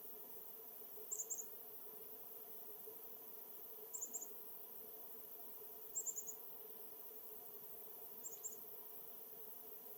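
Small bird giving very high, thin calls in quick clusters of three or four notes, repeated four times every two to three seconds, over a faint steady background hiss.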